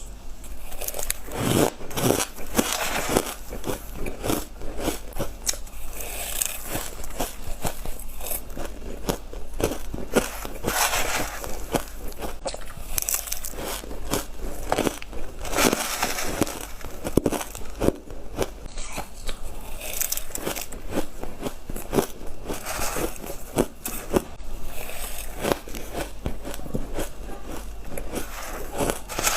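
A person biting and chewing ice: an irregular, continuous run of crunches and crackles.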